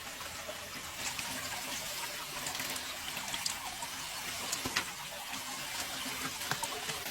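Water running and splashing steadily, with a few small clicks and knocks scattered through.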